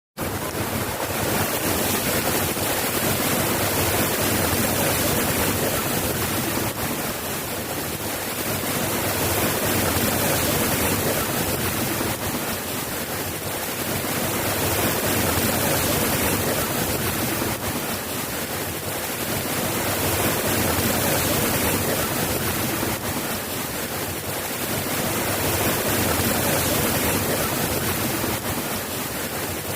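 Steady rain falling, an even hiss that swells and eases gently every few seconds.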